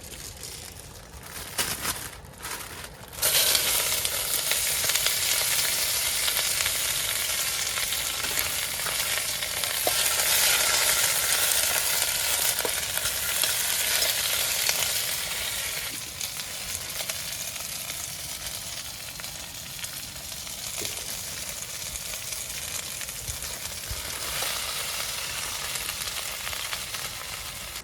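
Food frying in a hot pan: a loud, steady sizzle that sets in fully about three seconds in after a few lighter spits, and eases somewhat in the second half.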